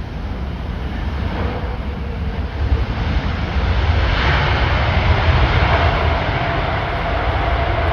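Jet airliner on final approach, its engine noise growing louder, with a steady whine joining about halfway through over a strong low rumble.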